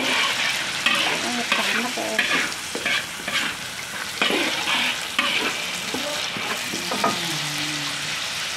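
Ground-chili sambal paste sizzling in hot oil in a large wok, stirred with a spoon that scrapes against the pan about once a second.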